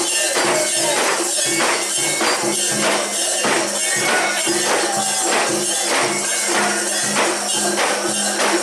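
Japanese shrine-festival music with a metallic jingling and clanking, about two strokes a second, as of a mikoshi's metal rings and fittings being shaken, over a steady low drone.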